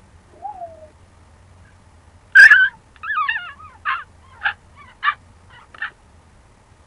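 Pet bird calling: a soft falling whistle, then a loud harsh call about two and a half seconds in, followed by a warbling run of rising and falling notes and four short calls about half a second apart.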